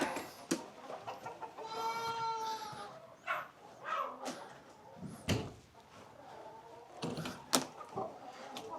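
Chickens clucking, with one drawn-out hen call about two seconds in, among several sharp knocks and clicks.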